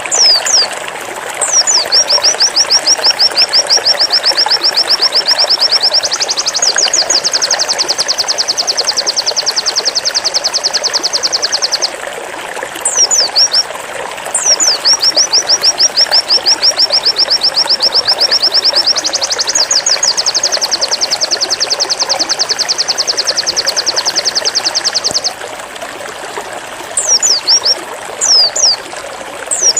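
A white-eye (pleci) sings its 'zipper' song. Each song is a long, very fast trill of repeated high notes that starts after a few falling notes and steps up in pitch partway through. Two such trills follow each other with short pauses of falling notes between them, over a steady rushing background noise.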